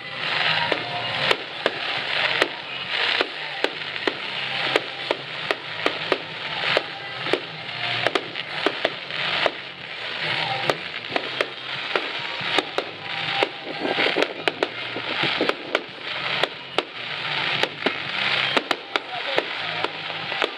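Fireworks display going off: many sharp bangs and cracks at irregular intervals, several a second, over a steady crackling hiss.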